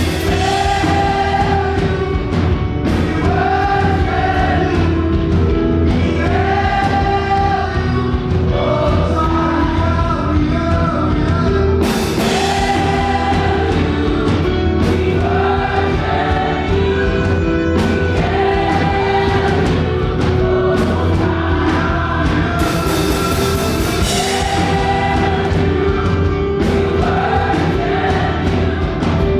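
Fast live gospel worship music: a choir of voices sings short, repeated phrases over a band with a steady beat, with two bright crashes at about twelve and twenty-three seconds in.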